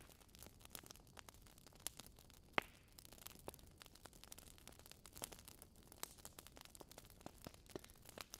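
Wood fire crackling quietly: burning logs giving irregular small pops and snaps over a low hiss, with one sharper pop about two and a half seconds in.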